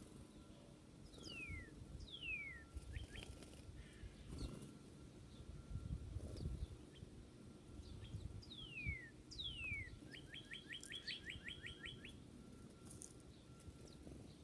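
A songbird singing: pairs of clear downslurred whistles, then a rapid trill of about a dozen notes a couple of seconds before the end, over a low outdoor rumble.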